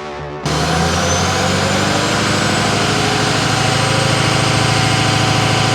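Pickup truck engine idling steadily. It cuts in abruptly about half a second in and runs at an even pitch.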